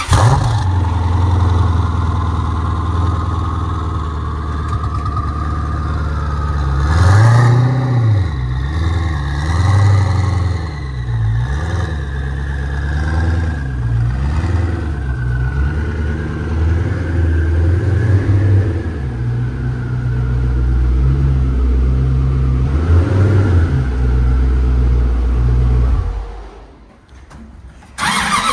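Koenigsegg Agera R's twin-turbo V8 running while the car is manoeuvred at low speed, mostly idling, with the revs rising and falling several times from about seven to fifteen seconds in. The engine is switched off near the end.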